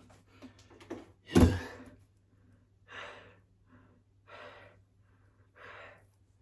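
A man breathing hard after heavy exertion: one loud sighing exhale with a falling pitch about a second and a half in, then three softer breaths out about a second and a half apart. He is winded from handling a big, heavy box.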